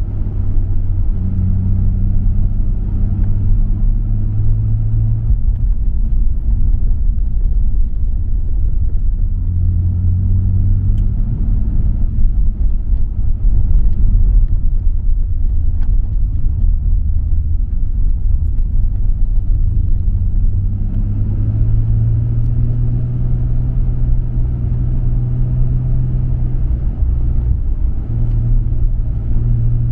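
Nissan Skyline R34 GT-R's RB26 twin-turbo straight-six running through a MINES exhaust while driving, its low engine note climbing and dropping several times with the throttle, over a steady road rumble.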